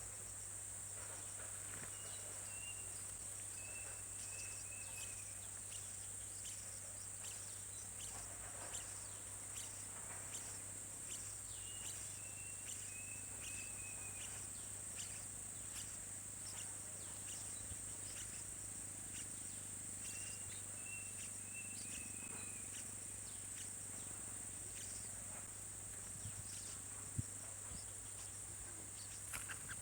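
A steady, high-pitched insect drone, with short runs of high bird chirps coming and going every several seconds and scattered faint clicks.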